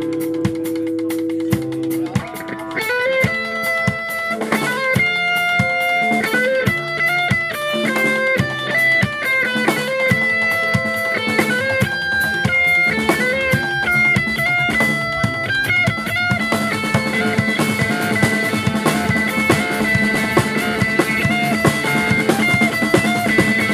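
Live rock band playing an instrumental passage: a held chord, then a plucked guitar melody over a drum kit. About two-thirds of the way in the full band comes in and the sound grows denser.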